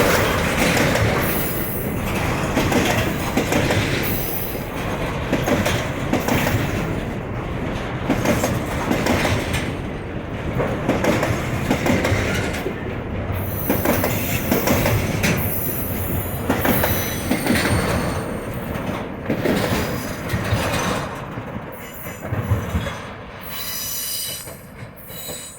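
Container freight train rolling past, its wheels clattering on the rails with squeals at times. The sound fades over the last few seconds.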